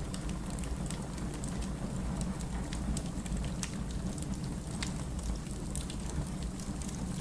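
Firewood burning in a fireplace: a steady low rumble of flame with frequent irregular sharp crackles and pops.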